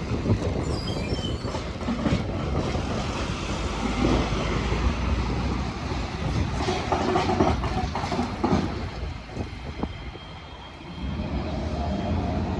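An Iyotetsu train or streetcar rolling over the diamond crossing, with a steady running rumble and scattered clacks as the wheels cross the intersecting rails. The noise dips briefly about ten seconds in and then rises again.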